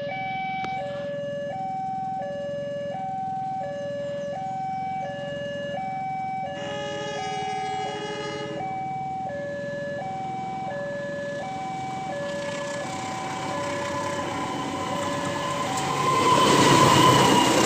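Railway level-crossing warning alarm sounding two alternating electronic tones, high then low, repeating about every second and a half; a richer, fuller tone briefly joins it about seven seconds in. Near the end the alarm fades under the rising rumble of an approaching train.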